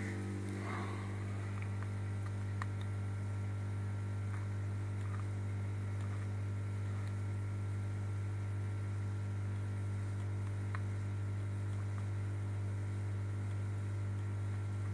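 Steady low electrical mains hum, unchanging throughout, with a few faint clicks.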